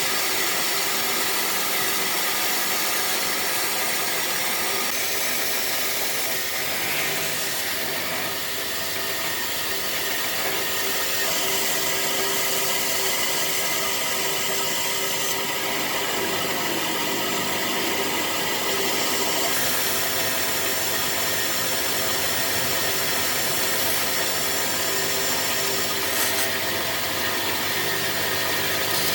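A power tool running steadily against wood, its motor whine constant while the abrasive cutting noise shifts a few times as the tool is worked.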